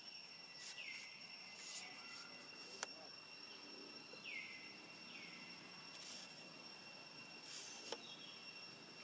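Faint, steady high-pitched insect drone, with several short chirps that drop in pitch and two sharp clicks.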